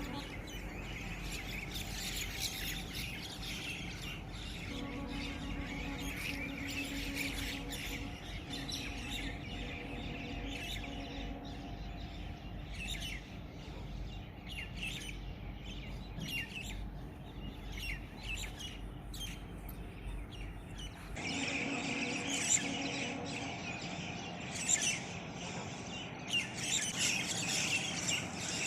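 Many small birds chirping and twittering in a dense, overlapping chorus over a steady low hum. The sound changes abruptly about three-quarters of the way through: the low rumble drops away and the chirping becomes louder and busier.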